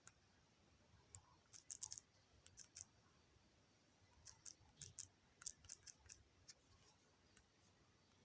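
Faint, quick clicks and taps in two short flurries, typical of fingers tapping a phone's touchscreen while working in an editing app.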